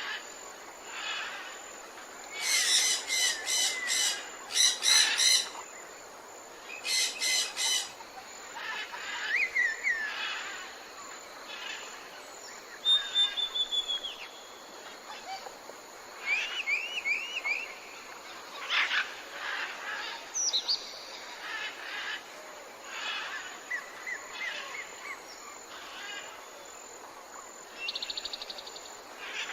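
Several wild birds calling and singing at once, a mix of different kinds of calls: loud buzzy, rattling phrases in the first eight seconds or so, then sweeping whistles, short repeated chirps and a quick trill near the end, over a faint steady hiss.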